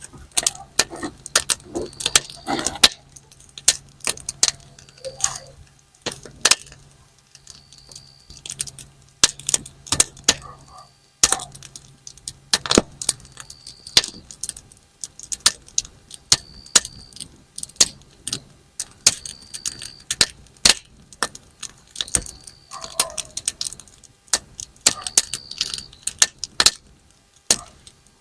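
Campfire wood burning and crackling, with frequent sharp, irregular pops like thrown snap-pop firecrackers.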